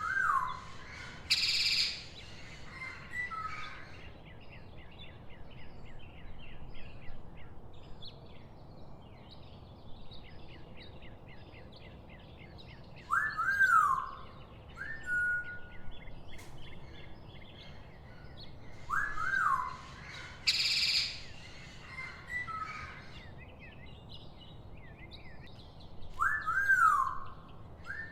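Birdsong: paired whistled calls that swoop up and down recur every several seconds over a faint run of quick high chirps, with two short harsh screeches, one about a second in and one about two-thirds of the way through.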